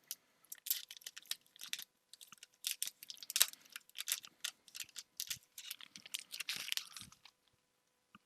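Crinkling and rustling of a foil Pokémon booster pack wrapper and cards being handled, a dense run of sharp crackles that stops about seven seconds in.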